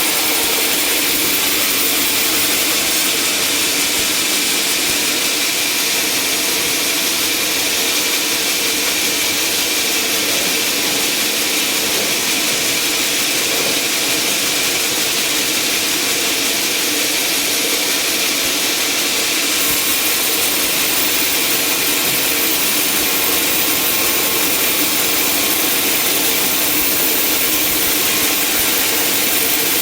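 Sawmill running steadily: engine and saw blade making a constant, even noise with a strong high hiss, unbroken throughout.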